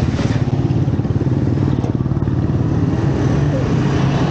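A motor vehicle's engine running steadily close by, a dense pulsing low rumble, with street noise above it.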